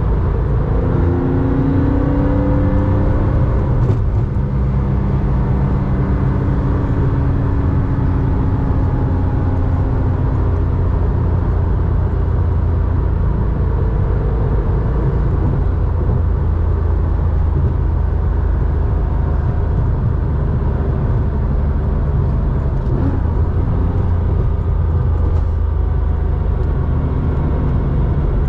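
1987 Porsche 911's 3.4-litre air-cooled flat-six, breathing through a Scart two-in-one-out muffler, running steadily while the car is driven. Its pitch shifts a little in the first few seconds.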